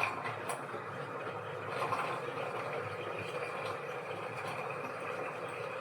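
Washing machine running with a steady, even mechanical hum.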